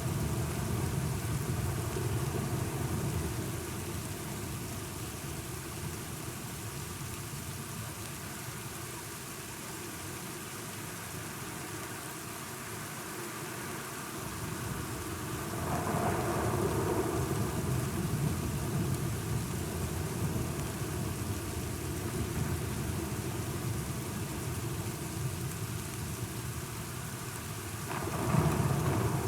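Steady rain falling, with a rumble of thunder swelling about halfway through and another, sharper one near the end.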